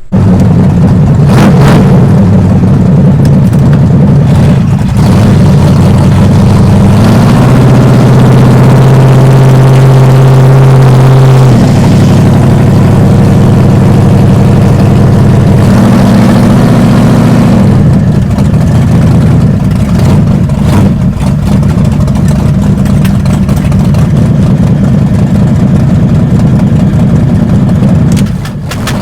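Mega truck's big engine running hard and loud, heard from inside the cab. The engine note climbs and holds for a few seconds, then drops off sharply, and it climbs briefly once more later.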